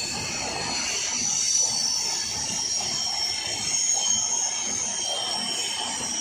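LHB passenger coaches of an Indian Railways express rolling past, wheels rumbling steadily on the rails with a continuous high-pitched squeal.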